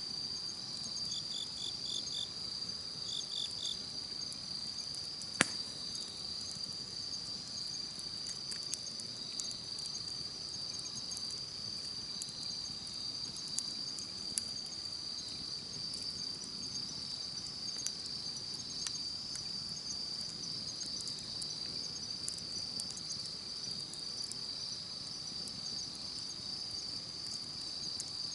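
Insects trilling steadily, with another insect chirping in short groups of pulses during the first few seconds. A campfire crackles with scattered small pops, one sharp pop about five seconds in being the loudest sound.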